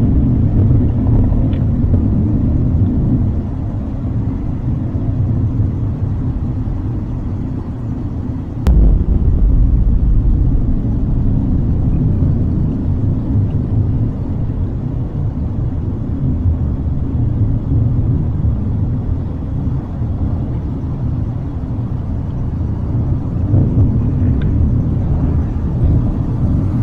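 Loud, steady low rumbling drone of the kind presented as the unexplained 'hum' or strange sound in the sky. A single click comes about nine seconds in, and the low rumble swells for a few seconds after it.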